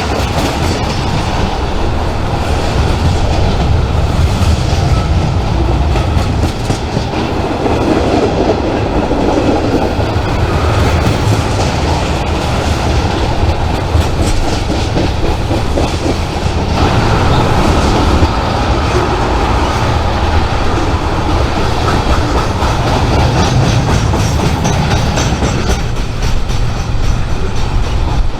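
A train rolling past at close range: a steady loud rumble of wheels on rail, with rapid clicks running through it.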